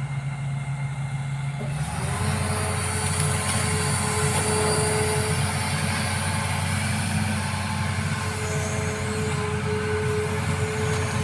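Excavator diesel engine running, its note changing and growing louder about two seconds in as it takes on load, with a thin whine that comes and goes above the engine hum.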